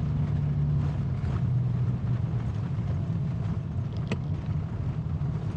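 Car engine and tyre noise heard from inside the cabin: a steady low drone, with one sharp click about four seconds in.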